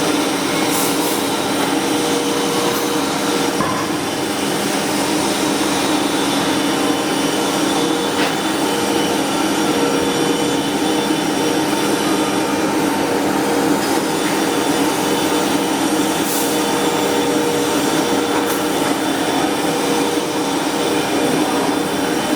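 Flux-cored arc welding on carbon steel pipe: the arc sizzles steadily and continuously, with a steady hum beneath it.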